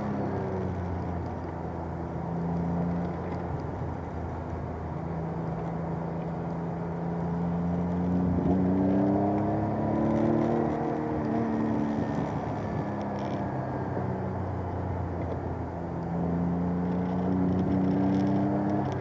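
Alpine A310 V6 engine running hard on a circuit. The revs climb and drop repeatedly, rising notably around the middle and again near the end, over a steady hiss.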